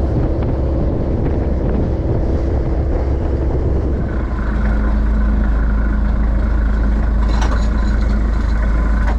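Bottom trawler's diesel engine running steadily; about four seconds in its note settles into a louder, even hum. Wind buffets the microphone, and there is a brief clatter near the end.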